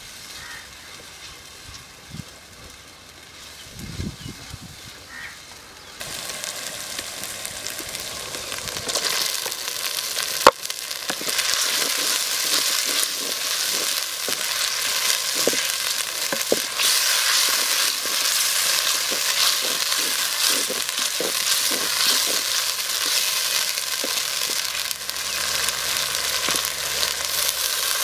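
Chopped onions, garlic, tomato and dried red chillies sizzling in oil in a clay pot as they are stirred with a spoon. The sizzle is faint at first, grows steadily louder after about six seconds, and a single sharp knock comes about ten seconds in.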